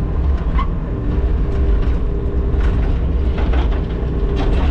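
Skid-steer loader engine running steadily. A steady whine comes in about a second in, and scattered clanks and scrapes come from the digging bucket.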